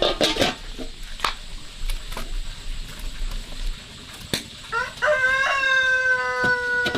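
A rooster crowing: one long, drawn-out crow beginning about five seconds in and sliding down in pitch as it ends, after a few short sharp clucks or knocks near the start.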